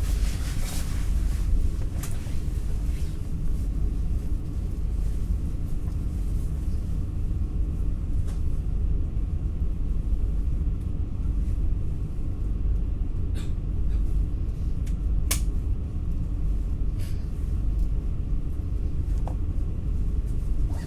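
Steady low rumble of an NS ICNG intercity electric train running on the rails, heard from inside the passenger car, with a few faint clicks, the sharpest about fifteen seconds in.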